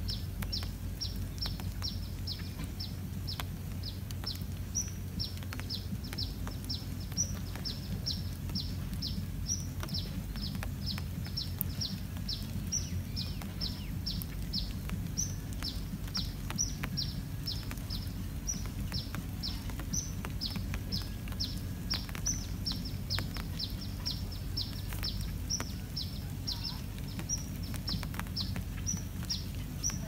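A bird calling a steady, rapid series of short, high, falling chirps, about two or three a second, over a low background rumble.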